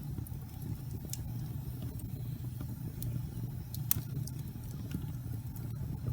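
Wood fire crackling in a fireplace: scattered sharp pops and snaps over a low, steady rumble of the flames, the loudest pop about four seconds in.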